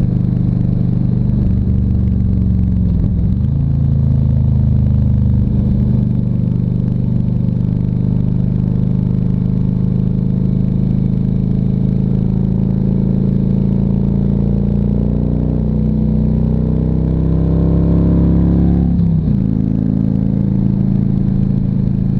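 Harley-Davidson Ultra Classic Electra Glide's V-twin engine running under way on the road. Its pitch climbs steadily for a few seconds as the bike accelerates, then drops suddenly about nineteen seconds in.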